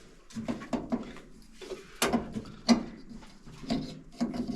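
A run of irregular knocks and clunks, with a cluster of light ones early and sharper, louder ones about two seconds in, near three seconds and near four seconds.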